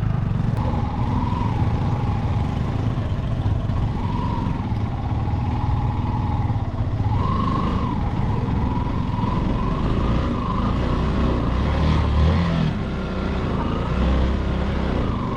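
Motorcycle engine running while the bike is ridden, its pitch wavering up and down with the throttle over a steady low rumble.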